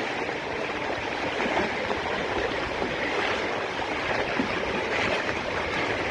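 Steady hiss of rushing water, even throughout, with no separate splashes or knocks.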